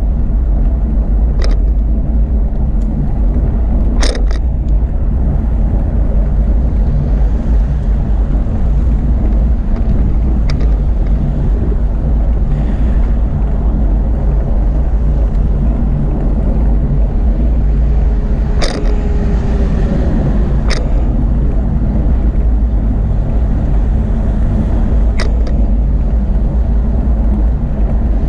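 Steady heavy rumble of wind buffeting the microphone of a camera riding along on a moving bicycle, with about six sharp clicks or rattles scattered through.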